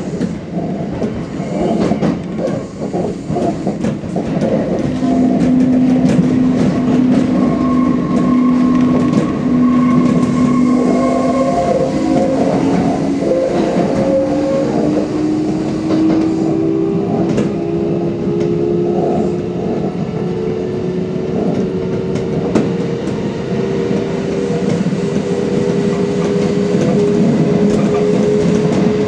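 Electric commuter train running on jointed track, heard from the cab: rail rumble with a quick run of wheel clicks at first, then a motor whine that slowly rises in pitch as the train gathers speed.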